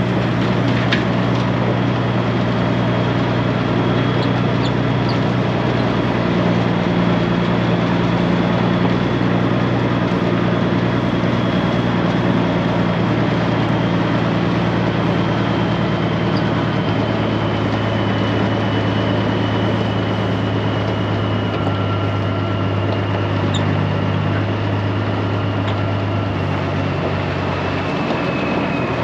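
Straight-piped Peterbilt 389 diesel running steadily at low revs with a deep, even drone, and a faint high whine that slowly falls in pitch.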